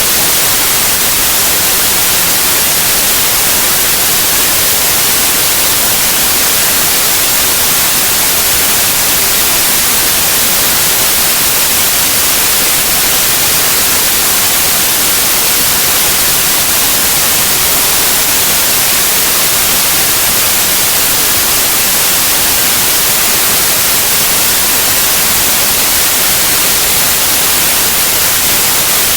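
Continuous electronically generated white noise: a loud, steady, even hiss, brightest in the high frequencies, with no change over time.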